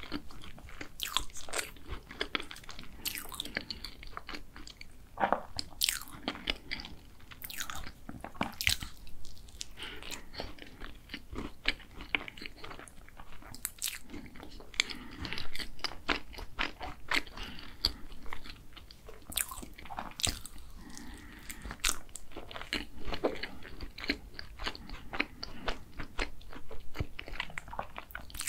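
Close-miked chewing and biting of a strawberry tart, with many crisp clicks and crunches from the pastry shell and wet mouth sounds.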